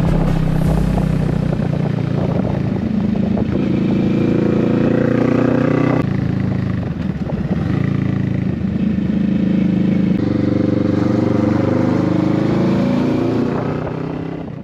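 Kawasaki Vulcan S motorcycle's 649 cc parallel-twin engine running under way, its pitch rising and falling with the throttle. There is low wind rumble on the microphone in the first second or so, and the sound fades out at the end.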